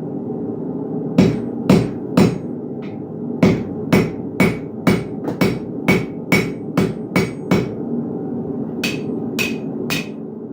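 Blacksmith's hammer striking hot iron on an anvil while forging a hook. Three blows, then a quicker run of about a dozen at two to three a second, then three more near the end, each with a short metallic ring, over a steady low hum.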